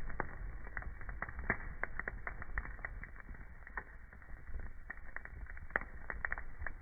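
Wood fire crackling in a fireplace: irregular sharp pops and snaps, several a second, over a low steady rumble of the burning.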